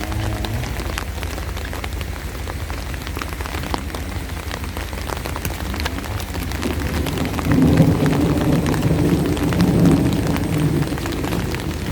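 Steady rain with many sharp close drop hits on an umbrella. A louder low rumble swells from a little past the middle and fades near the end.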